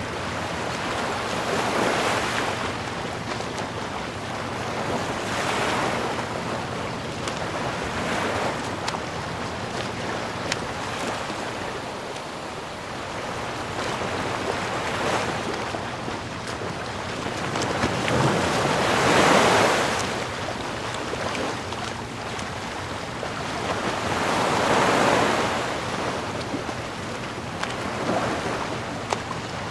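Ocean waves breaking and washing ashore, the rushing sound swelling and ebbing every few seconds, with the biggest wave about two-thirds of the way through.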